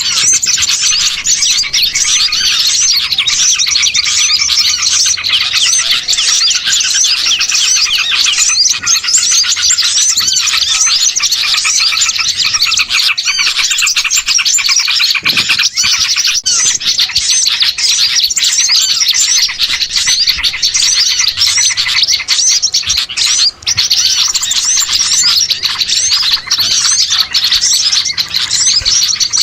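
Dense, unbroken chorus of many small songbirds chirping and twittering over one another, a layered bird-trapping lure recording of small-bird calls.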